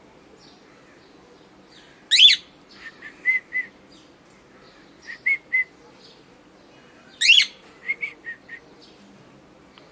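Cockatiel calling: two loud sweeping calls about five seconds apart, each followed by two or three short chirps. The owner takes the calling for a happy bird.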